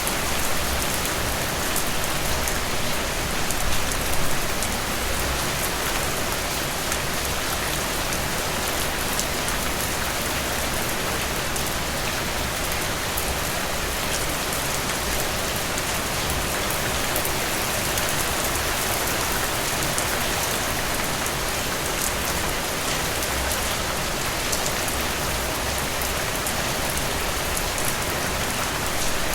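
Steady rain falling, an even hiss with fine drop patter, swelling briefly about four seconds in.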